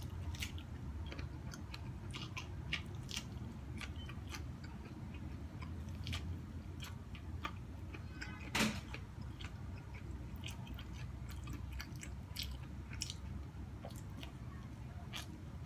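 A person biting into and chewing cooked corn on the cob: a run of small crunching, smacking clicks, with one louder click a little past halfway. A low steady hum lies underneath.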